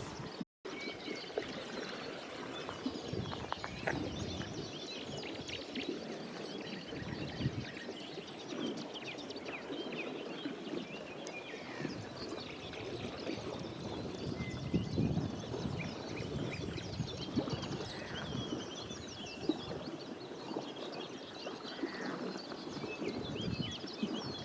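Many birds calling and singing over one another, a busy mix of short chirps and whistles, over a steady low noise.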